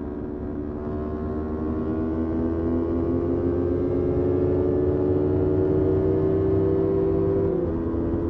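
Motorcycle engine pulling under acceleration, its pitch and loudness climbing slowly for several seconds, then dropping in pitch near the end.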